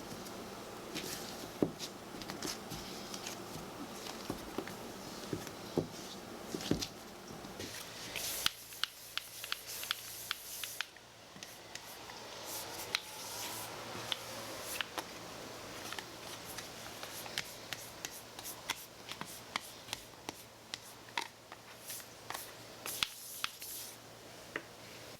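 Hands handling small objects in a small room: a string of short clicks, taps and light scrapes, with a faint steady hum under the first third.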